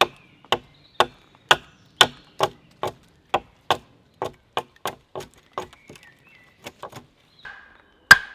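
Repeated blows of a tool into wood, about two a second, a few lighter and quicker in the middle, then a heavier strike near the end that leaves a short metallic ring.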